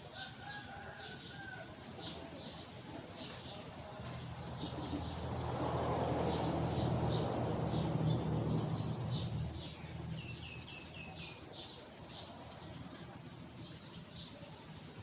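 Small birds chirping: many short, high, repeated chirps throughout, with a quick run of four lower notes about eleven seconds in. A low rumble swells and fades in the middle.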